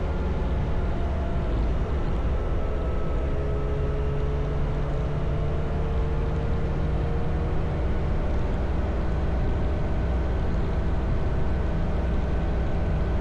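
Motorcycle engine running steadily while riding, with low wind rumble on the microphone; the engine pitch drifts a little as the speed changes.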